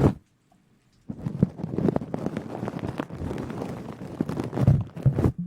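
Dense, crackly rustling right against the microphone, with many small clicks. It stops abruptly just after the start, picks up again about a second in, and cuts off sharply near the end.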